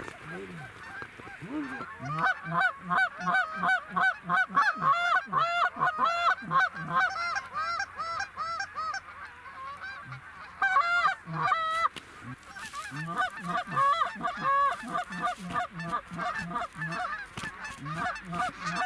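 Geese honking rapidly and without pause, many calls overlapping, as a large flock passes overhead.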